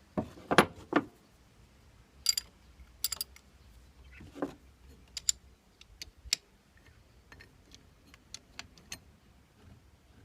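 Metal spanners and fittings handled: scattered clicks, knocks and light metallic clinks, a few louder knocks near the start and some ringing clinks about two to three seconds in.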